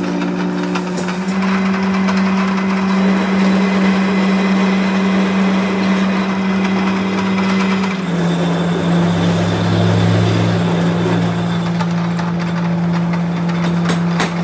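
Heavy workshop machinery running with a steady, loud hum and a dense hiss of noise above it; the hum's pitch steps up slightly about a second in and drops about eight seconds in.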